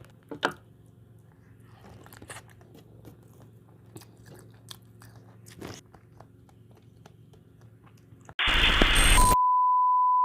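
Close-miked eating: scattered crunches, bites and chewing clicks. About eight seconds in, a sudden loud burst of noise cuts in, then a steady high beep tone.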